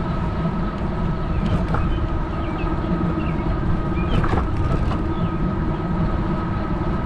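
Electric bike's motor running with a steady whine, over tyre and wind rumble on a handlebar-mounted microphone. A few faint short chirps sound about two to four seconds in.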